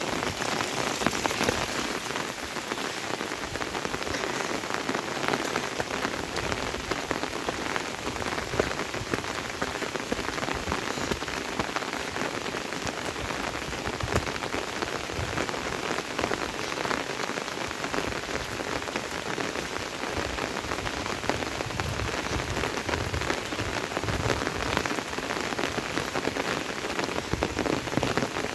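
Rain falling steadily, with many individual drops striking close by.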